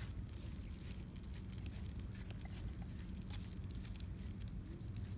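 Campfire crackling in a stainless fire grill, with scattered small pops and snaps over a steady low rumble.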